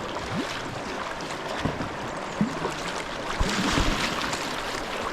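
River water flowing steadily around kayaks on the water, with a few short low thumps mixed in.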